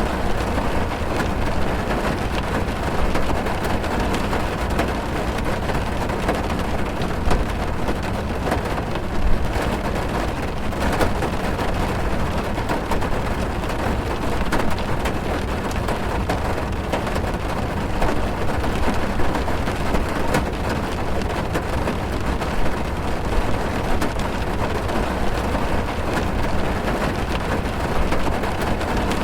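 Heavy rain on a car's body and windows, heard from inside the car: a steady, dense patter of drops over a constant low rumble.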